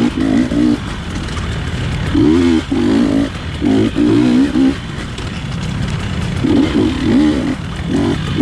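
GasGas dirt bike engine revving in short bursts, the throttle opened and shut again and again, with a longer quieter stretch about halfway through.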